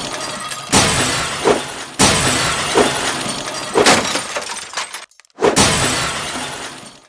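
A series of loud shattering crashes, each starting suddenly and fading away over about a second, about one every second and a half, like breaking glass.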